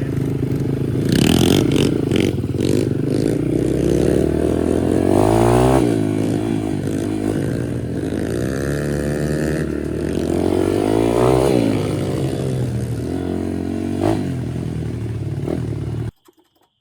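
Chinese pit bike's single-cylinder engine, fitted with a new aftermarket cam, revving up and down under throttle as the bike is ridden, with its pitch rising and falling several times. The sound cuts off suddenly near the end.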